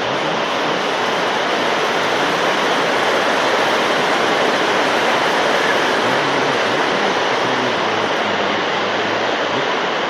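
Heavy summer rain pouring down in a steady downpour, a dense, even hiss.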